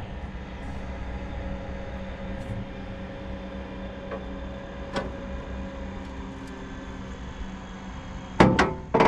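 Engine idling steadily, a low even hum, with a single sharp click about five seconds in.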